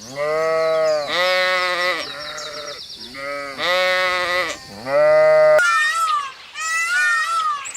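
Bleating farm animal: a run of long, low bleats, each about a second long. About two-thirds of the way through they give way to two higher-pitched calls with a wavering pitch.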